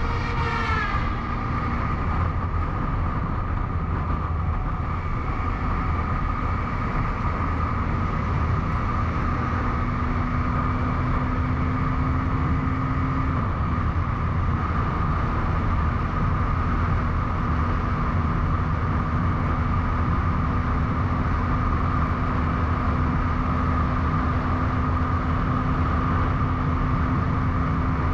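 Motorcycle cruising at steady speed, its engine running under loud wind rush on the helmet-mounted camera. A brief tone falls in pitch in the first second or so, like a vehicle passing.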